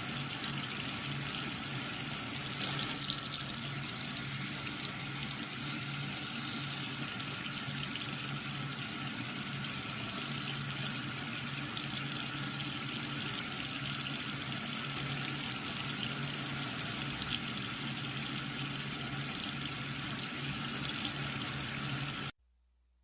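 Water running and splashing steadily, with a low steady hum from a small electric water pump; it cuts off abruptly near the end.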